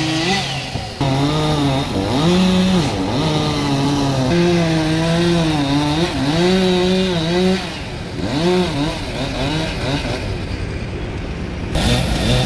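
Two-stroke chainsaw revving, its pitch rising and falling again and again with the throttle; it eases off for a moment about eight seconds in.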